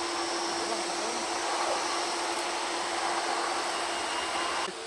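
Jet airliner engines running, a steady rush with a constant hum and a thin high whine, which cuts off suddenly near the end.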